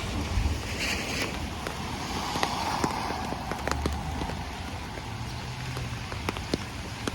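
Rain falling, with scattered sharp taps of drops landing close by and low wind rumble on the microphone now and then.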